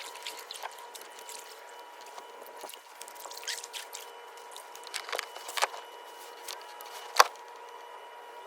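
Light water drips, trickles and small splashes around a kayak as a small crappie is let back into the water, with scattered handling clicks and one sharp click about seven seconds in.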